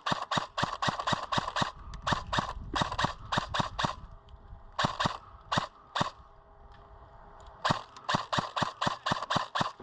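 Airsoft gun firing in quick runs of sharp cracks, about six shots a second, stopping briefly about four seconds in and again for nearly two seconds after about six seconds in.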